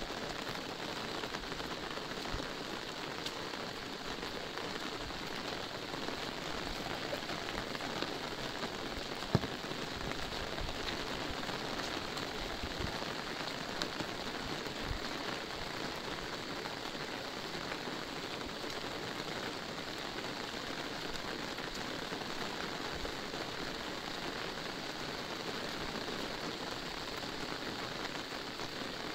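Steady rain falling on an umbrella's fabric held just above the microphone, an even hiss of drops with no let-up. A single sharp tap stands out about nine seconds in.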